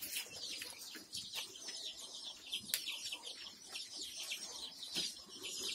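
A flock of young Kadaknath and desi chicks peeping: many short, high-pitched, falling cheeps overlapping one another.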